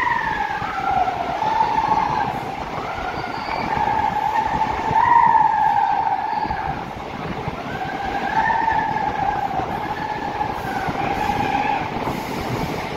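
Passenger train running through a tunnel, heard from the coach's open door: a loud constant rush of running noise with a high squeal over it that wavers up and down in pitch.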